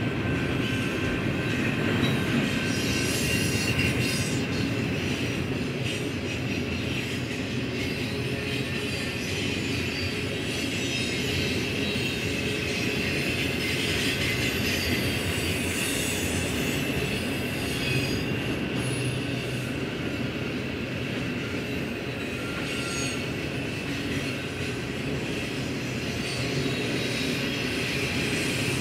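Double-stack intermodal freight cars rolling past at close range: a steady heavy rumble of steel wheels on rail, with a high wheel squeal over it throughout.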